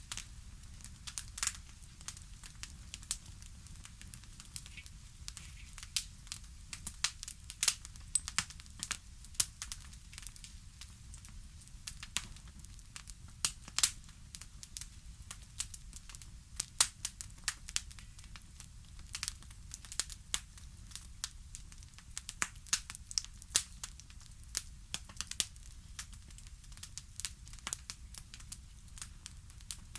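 Wood fire crackling in a fireplace: irregular sharp pops and snaps of varying loudness over a low, steady rumble.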